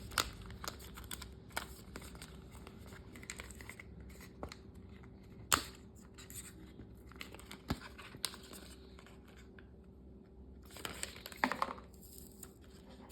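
Hands handling an Apple Watch SE's packaging: scattered sharp clicks and taps with rustling and tearing of paper and cardboard. The loudest click comes about five and a half seconds in, and a cluster of rustling near the end.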